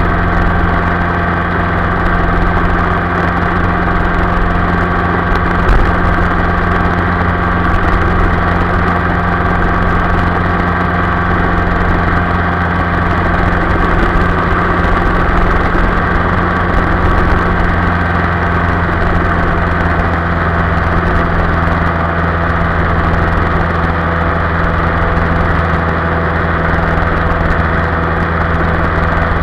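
Yamaha Y15ZR's 150 cc single-cylinder four-stroke engine running at a steady cruising speed, its pitch holding even with no revving up or down.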